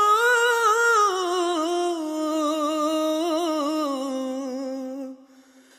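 Background Hindi song: a single voice holds a long wavering sung note that slowly falls in pitch, then fades out about five seconds in.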